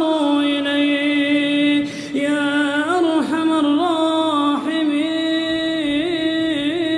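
A single unaccompanied voice chanting long, held notes without words, ornamented with small melodic turns, with a short break about two seconds in.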